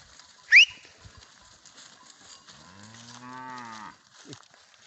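A short, sharp rising whistle about half a second in, the loudest sound, then a cow mooing once for about a second and a half.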